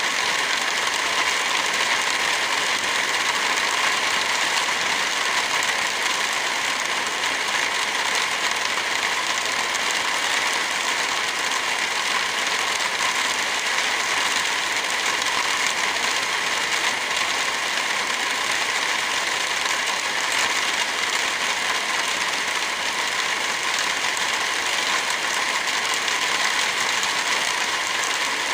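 Heavy rain falling steadily, a dense, even hiss of drops with no breaks or rises.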